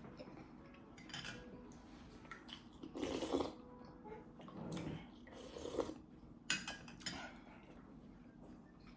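Cutlery clinking and scraping against dishes in a string of short bursts during a meal, loudest about three seconds in.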